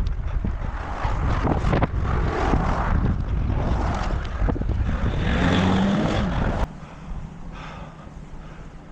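Wind rumbling on the microphone and road traffic noise while cycling along a road, with a motor vehicle passing close about five to six seconds in; the noise then drops off abruptly.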